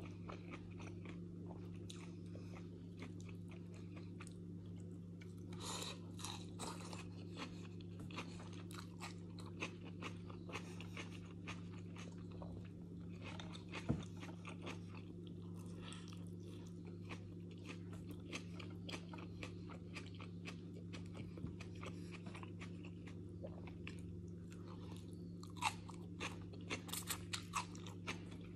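A person chewing and crunching raw salad vegetables and flatbread, in crackly bursts that are heaviest about six seconds in and near the end, with one sharp click about halfway. A steady low hum runs underneath.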